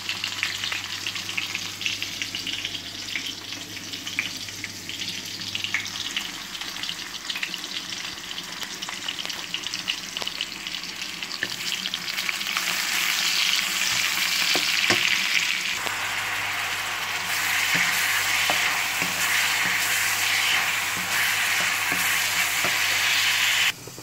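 Sliced red onion sizzling in hot oil in a wok, stirred and scraped with a wooden spatula. The sizzle grows louder about halfway through.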